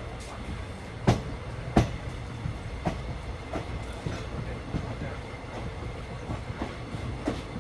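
Moving train: a steady low rumble with scattered sharp clacks of wheels over the rails, two louder knocks about a second in and just under two seconds in.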